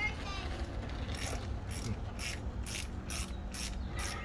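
Ratcheting wrench clicking in a steady rhythm, about three clicks a second from about a second in, as a coil pack hold-down bolt is tightened.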